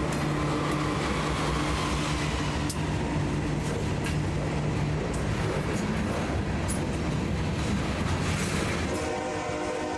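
Freight train running past, a steady low hum of the locomotive under continuous rolling noise. A train horn starts sounding near the end.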